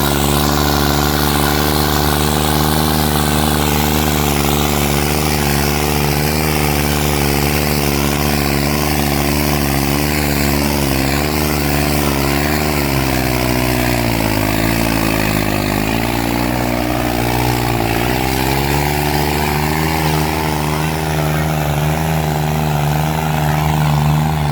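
New Holland 3630 tractor's diesel engine working hard pulling a 22-tine harrow. Its pitch wavers and sags for a few seconds past the middle as the load drags it down, then climbs back up.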